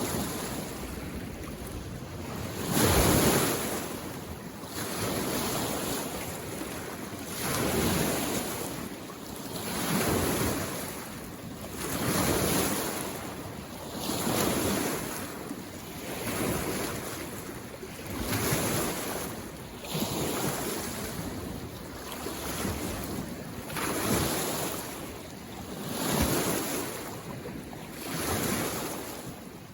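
Small waves lapping on a lake shore, each wave a soft splash that swells and fades about every two seconds, the loudest a few seconds in.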